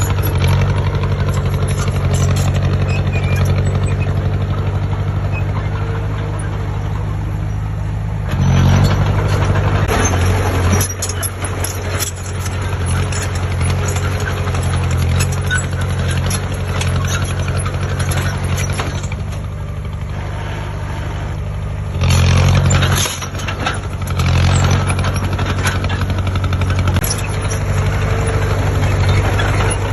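Heavy construction machine's diesel engine running under load, surging louder twice (about eight seconds in and again about twenty-two seconds in) as it is worked harder.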